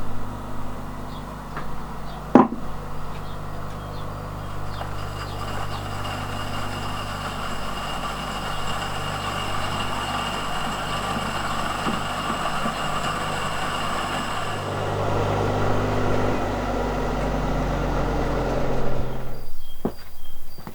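A motor or engine running steadily with a low hum, with one sharp click early on, then cutting off abruptly near the end.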